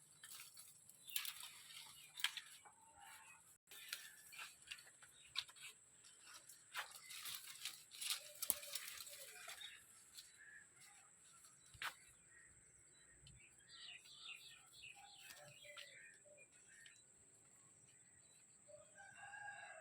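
Faint short bird calls and chirps among scattered soft clicks, with the calls clearer near the end.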